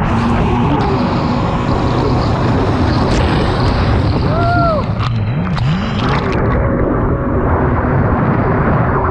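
Personal watercraft (jet ski) engine running hard under way, its pitch rising and falling again and again as the throttle is worked, over a steady rush of wind and water. About halfway through, a brief whine rises and falls.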